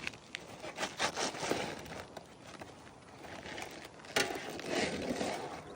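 Irregular scraping and crackling of brittle asphalt roof shingles being pried and handled, with a few sharp clicks.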